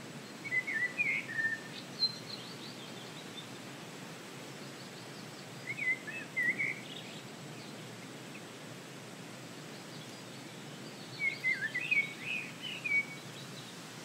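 A songbird singing short, quick warbled phrases three times, about five seconds apart, over a steady hiss of breeze.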